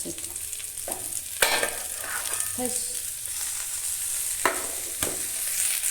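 Food frying with a steady sizzle in oil in a cast iron pan while it is stirred, with the utensil knocking sharply against the pan three times.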